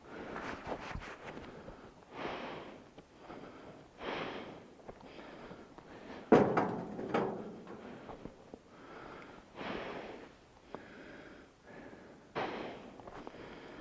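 A person breathing close to the microphone, one breath every second or two, with a sharp knock about six seconds in.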